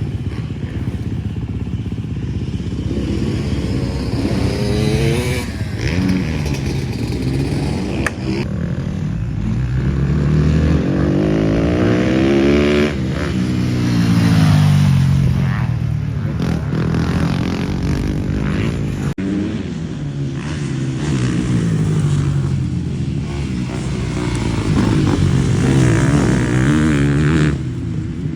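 Dirt bike engine revving up and down as it is ridden, its pitch climbing and dropping repeatedly through the gears.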